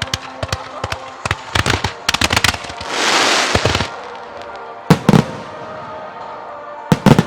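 Aerial firework shells bursting: a rapid string of sharp reports in the first two and a half seconds, a dense crackling hiss about three seconds in lasting about a second, then heavy booms about five seconds in and again near the end. Music plays faintly underneath.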